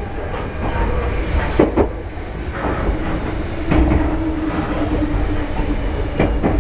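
Meitetsu 5300 series electric train running, heard from inside at the front: a steady low rumble with sharp clicks of the wheels over rail joints, and a steady whine for a few seconds in the middle.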